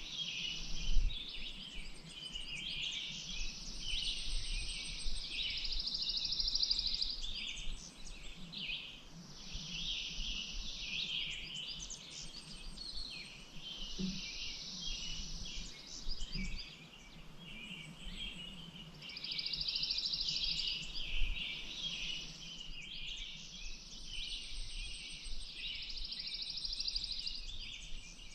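Dense chorus of small songbirds chirping and singing, with long, rapidly pulsed trills that run for several seconds at a time over a faint low rumble.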